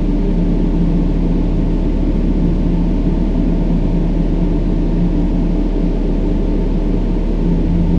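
Brown noise: a steady, deep, even rush weighted to the low end, with a few faint held low tones running through it.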